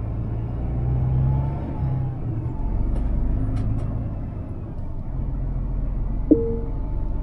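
Scania R500 truck's diesel engine running under the cab, its low drone shifting in pitch a couple of times as engine speed changes. Near the end a short electronic beep sounds once, the first of a series repeating about every second.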